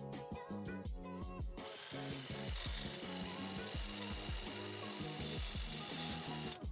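A power tool scouring rusty metal bodywork makes a steady hiss that starts about one and a half seconds in and stops near the end, over background music.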